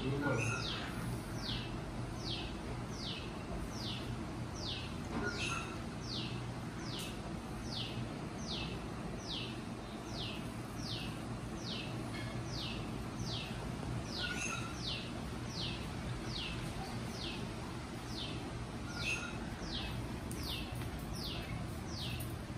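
A bird calling over and over: a steady run of short, high notes, each sliding downward, a little more than one a second, over a low steady background rumble.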